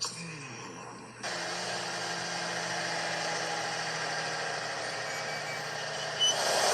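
Semi truck engine running steadily while cruising on the highway, a low even drone with road noise that comes in about a second in, after a short falling tone.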